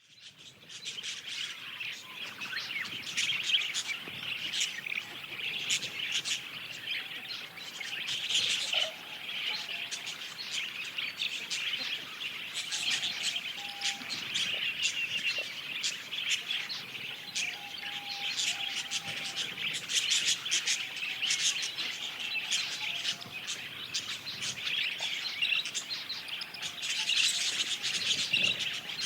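Budgerigars (budgies) chirping and warbling together: a continuous chatter of quick, sharp chirps and squeaky warbles.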